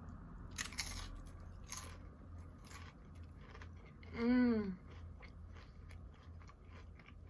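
Crunchy chips being bitten and chewed with dip close to the microphone, with several sharp crunches in the first three seconds and softer chewing after. About four seconds in, a short hummed "mm" sounds over the chewing.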